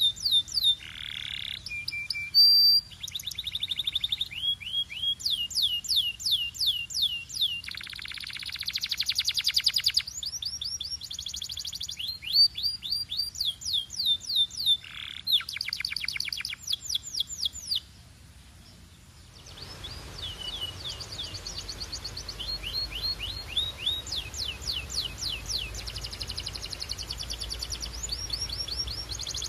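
Canary singing, a rapid chain of repeated phrases: fast trills of short falling whistles and buzzy rolls, each repeated many times before switching to the next. The song breaks off briefly about two-thirds through, then resumes over a low steady hum.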